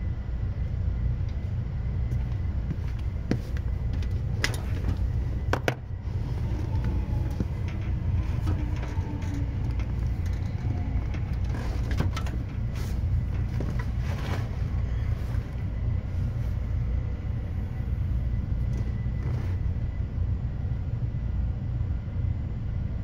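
Seibu 10000 series electric train running, heard from inside the car: a steady low rumble with scattered clicks and knocks and a faint steady high tone.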